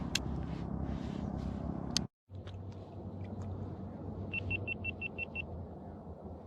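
A steady low rumble cuts out abruptly for a moment about two seconds in, then returns. A couple of seconds later a small electronic device gives a quick run of seven short, high beeps, all on one pitch.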